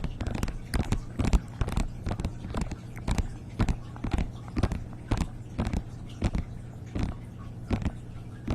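Close-miked sharp clicks and taps, irregular, a few a second, over a steady low hum.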